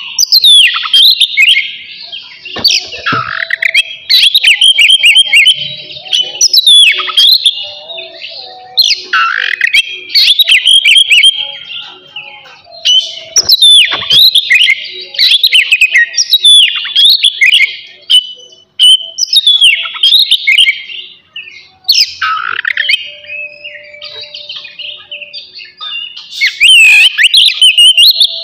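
Oriental magpie-robin singing hard in loud, rapid phrases of sweeping whistles and chattering notes, several seconds each with short breaks between. This is the full, excited song that keepers play to provoke captive birds into singing.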